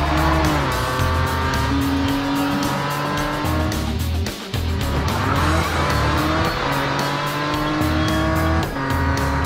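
Cartoon race car engine sound effects revving up twice, with long pitch glides, over background music with a steady beat.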